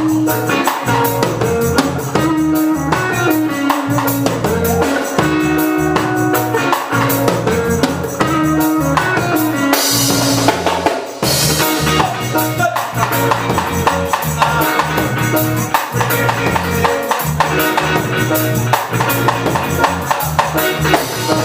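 Live reggae band playing an instrumental passage between verses: drum kit, bass line and guitars, with a cymbal swell about ten seconds in.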